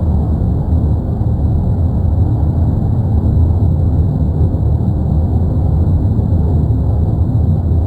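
Erupting volcano giving a steady, deep rumble that holds level without a break.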